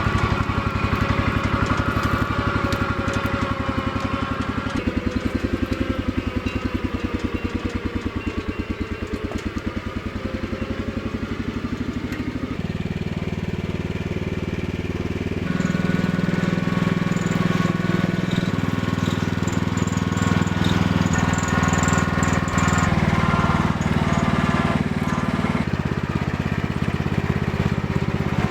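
1978 Cub Cadet 1000 garden tractor's engine running during a test drive in its newly fitted creeper gear, its pitch and loudness stepping up and down several times and running louder from about halfway through.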